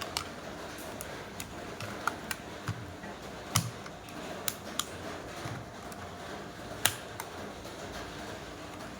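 Scattered small sharp clicks and taps, as of the plastic casing and small parts of a Sony WM-GX221 cassette Walkman being handled during disassembly; two clicks, about 3.5 and 7 seconds in, are louder than the rest.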